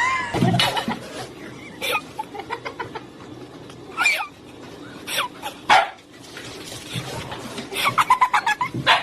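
A dog barking in short separate calls, then a quick run of barks near the end.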